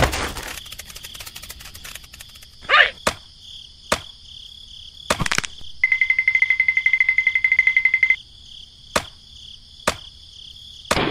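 Layered sound effects: a steady high chirring like insects throughout, a loud hit at the start followed by about two seconds of crackling, then scattered sharp clicks and knocks. About six seconds in, a rapid electronic beeping lasts about two seconds.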